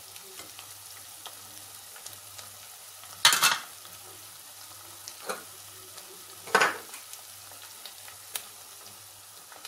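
Onion and garlic frying in oil in a stainless steel pot, a steady faint sizzle, with two louder clatters about three seconds apart and a few lighter ticks.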